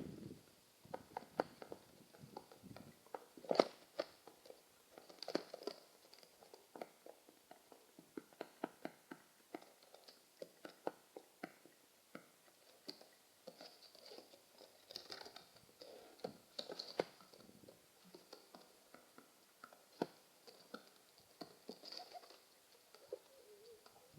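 Pigeons moving about: a stream of soft, irregular taps, scratches and crunches, a few louder clicks among them.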